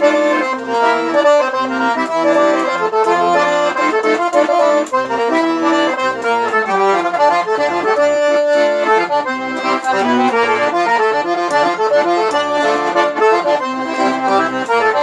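Accordion (sanfona) playing a fast instrumental forró passage of quick melodic runs over pulsing bass notes.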